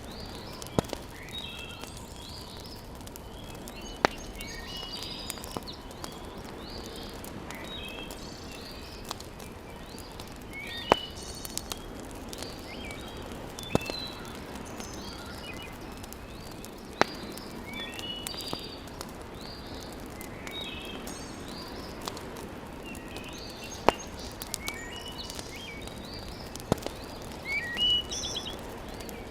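Wood fire burning in a fireplace: a steady hiss broken by sharp single pops every few seconds. Birds chirp throughout.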